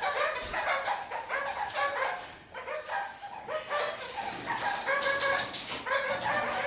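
Red-crowned kakariki chattering and calling: a run of short pitched calls one after another, with a brief lull about two and a half seconds in.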